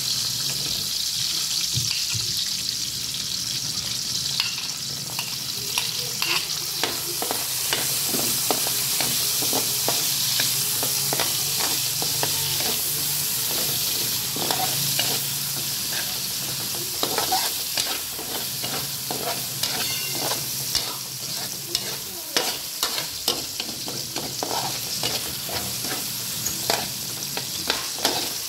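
Garlic and sliced onion sizzling in hot oil in a wok, stirred with a metal spoon that scrapes and clinks against the pan. The sizzle is a steady hiss, and the spoon's clicks grow more frequent after about six seconds.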